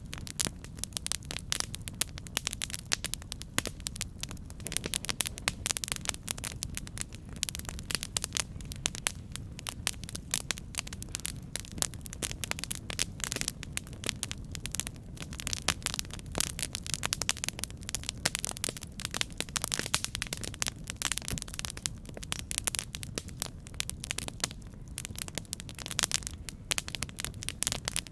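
Campfire burning: wood crackling with many rapid, irregular snaps and pops over a steady low rumble of the flames.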